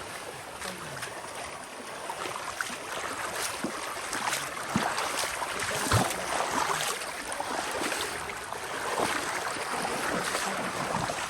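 Water of a shallow river rushing and splashing as people wade across it, with irregular splashes throughout.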